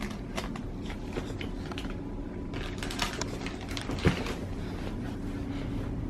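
Scattered small clicks and rustles with one sharper knock about four seconds in, over a steady low hum of room tone.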